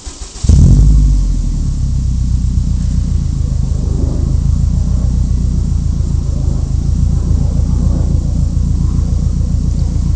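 Subaru WRX flat-four engine with an aftermarket turbo-back exhaust starting up. It catches about half a second in with a loud flare, then settles into a steady idle.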